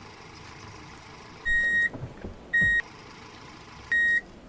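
Electronic reversing-style beeps from a battery-powered toy vehicle's sound module: three short, high beeps a second or so apart over a steady low hiss, with a few soft knocks between the first two beeps.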